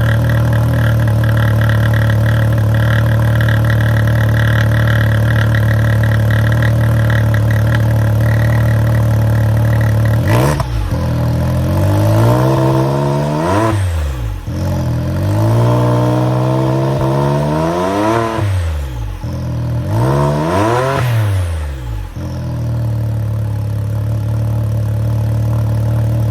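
2018 Can-Am X3's turbocharged three-cylinder engine idling through a homemade muffler and cat-delete exhaust, then revved: a quick blip about ten seconds in, followed by three longer revs that rise in pitch and fall back to idle.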